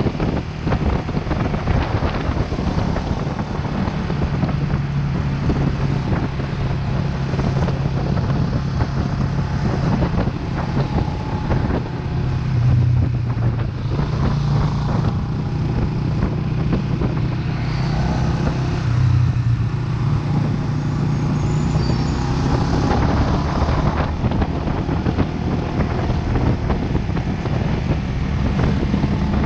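Vento Lucky 7 motorcycle engine running under way, its low note shifting pitch a few times with the throttle, with wind rushing over the microphone.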